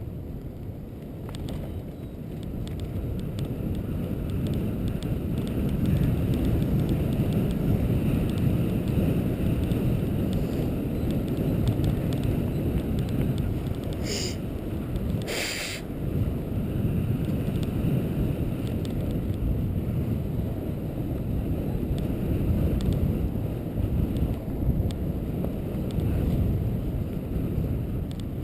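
Steady low rumble of wind buffeting the microphone, with a brief sharper noise about halfway through.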